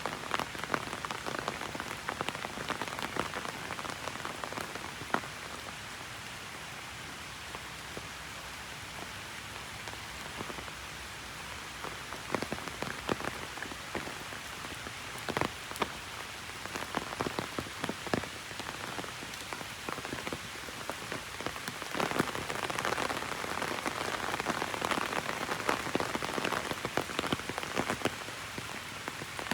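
Heavy rain falling on an umbrella held overhead: a steady wash of rain with many sharp taps of single drops striking the canopy. The rain thins for a few seconds, then comes down harder past the middle.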